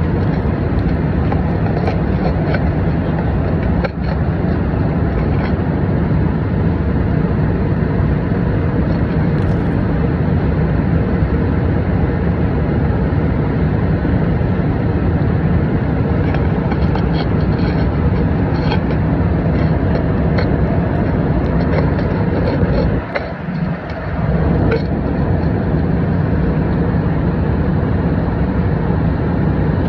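Steady engine and air noise of an airliner cabin in flight, heaviest in the low range, with a few faint clicks. The level briefly drops about two-thirds of the way through.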